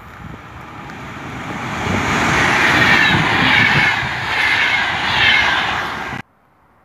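Finnish VR double-deck InterCity train, hauled by an electric locomotive, approaching and running past close by. The rush of wheels on rail and air builds, stays loud as the coaches go by, then cuts off suddenly about six seconds in.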